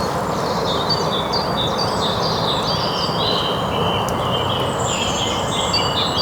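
Birds chirping in many short, repeated notes over a steady background hiss.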